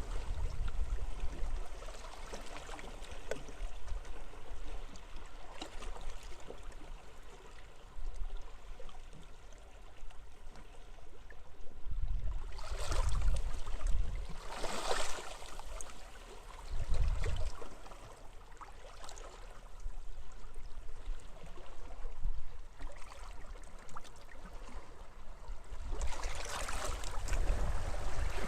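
Waves washing onto a beach with wind buffeting the microphone, the wash swelling louder about halfway through and again near the end.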